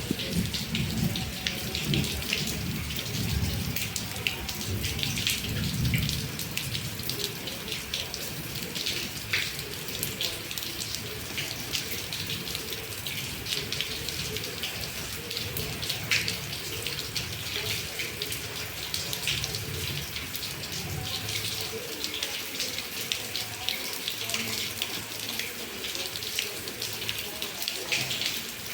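Heavy rain falling steadily, dense with drops and splatters, with the sound of water running and pouring. A low rumble sits under it for the first several seconds.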